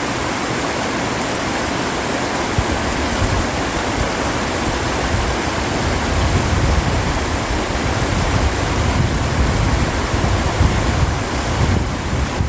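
Mountain valley stream rushing steadily, with wind on the microphone adding a gusty low rumble that strengthens after a few seconds.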